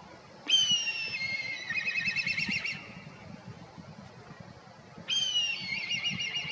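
Black kite calling twice: each call a high whistle sliding down into a rapid wavering trill, the familiar 'pee-hyororo' call, the second starting about five seconds in.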